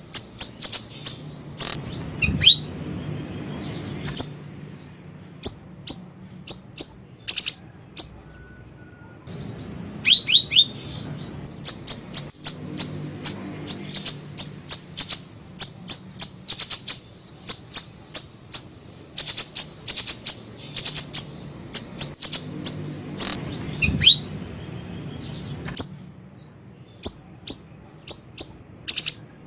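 Small songbird known to Indonesian bird-keepers as siri-siri, calling in rapid runs of high, sharp chirps, several a second, broken by short pauses; a lure call used to draw in wild birds.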